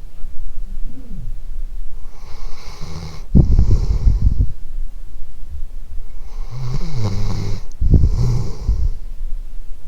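A dog snoring in its sleep: slow, heavy breaths, with two louder snores about four seconds apart.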